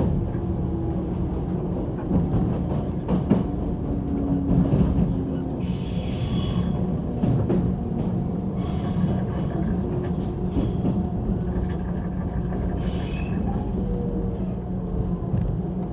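JR 185 series electric train running, heard from aboard: a steady low rumble of wheels on rail with a steady motor hum, a few knocks about three seconds in, and four short high-pitched squeals spread through the middle.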